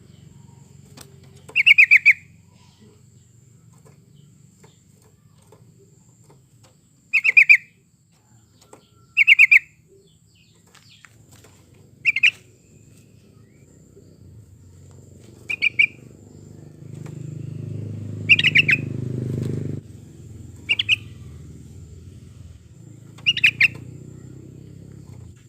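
Yellow-vented bulbul calling in short, bubbly phrases, about eight of them a few seconds apart. A low rumble swells in the background about two-thirds of the way through.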